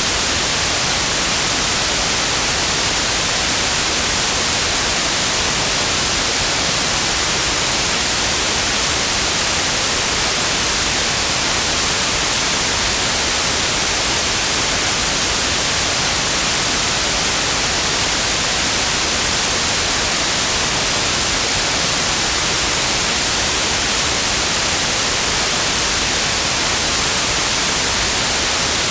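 Steady synthesized white noise: an even, unchanging hiss across the whole range of pitch, strongest in the highs.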